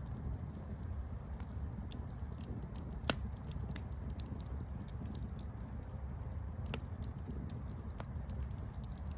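Campfire burning with a steady low roar and scattered sharp crackles and pops of burning wood, one louder pop about three seconds in.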